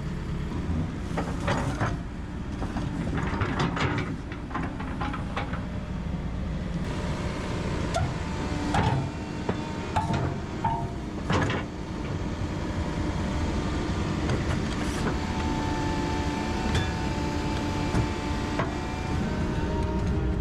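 Heavy excavator diesel engine running steadily, with irregular metallic clanks and knocks from the steel tracks and undercarriage being worked; the loudest clanks come about halfway through.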